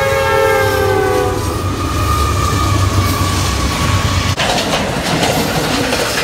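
A passing train's multi-note air horn, its pitch dropping as it goes by, ending about a second and a half in over the low rumble of the train. About four seconds in the sound changes abruptly to the clatter of rail cars rolling past.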